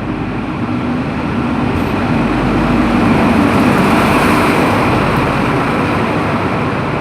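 High Speed Train (InterCity 125) arriving at the platform, its Class 43 diesel power car running loud, the engine and rail noise swelling as it comes close and easing slightly toward the end.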